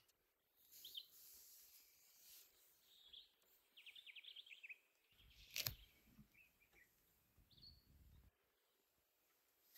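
Near silence: quiet bush ambience with scattered bird chirps, including a quick run of chirps about four seconds in. A single sharp click comes a little after halfway, followed by a low rumble for about three seconds. The elephants walking past make no audible footfalls; their cushioned feet are that quiet.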